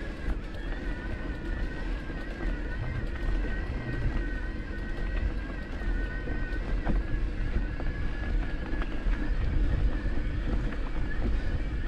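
Motocross motorcycle engines running at a distance, their pitch wavering up and down as the bikes go round the track, over a steady low rumble of wind on the microphone.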